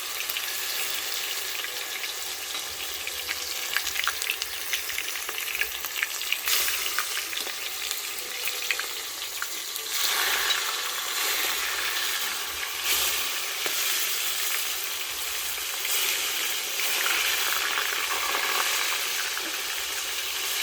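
Chicken pieces frying in hot oil in a pot: a steady sizzle with scattered crackles and pops, getting louder and denser about halfway through.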